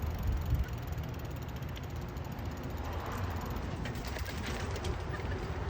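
Steady low rumble of a vehicle, with a faint even hiss over it.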